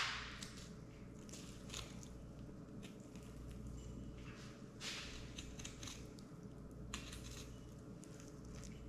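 Knife cutting into a spotted seatrout while filleting, short scraping cuts every second or two, a louder one about five seconds in, over a low steady hum.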